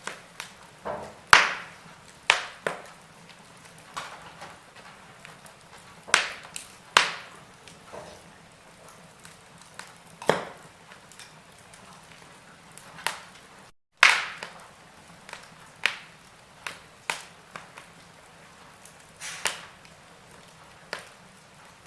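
Wood fire burning in a fireplace: sharp, irregular crackles and pops of varying loudness over a faint steady hiss. The sound drops out for a split second about two-thirds of the way through.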